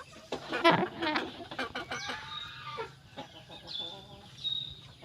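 Aseel chicken calling: a loud, rough, pitched call starting about half a second in and lasting around two seconds, followed by two faint short high notes.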